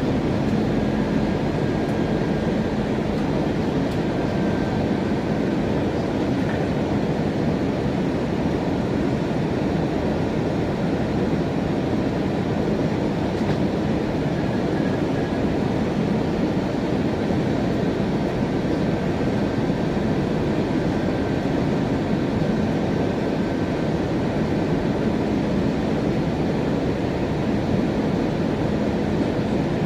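Steady rumble and hiss of an Airbus A321-200's engines and airflow heard inside the passenger cabin, unchanging throughout.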